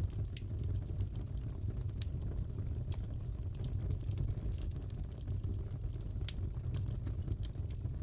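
Crackling fireplace fire: a steady low rumble of burning with irregular sharp pops and crackles.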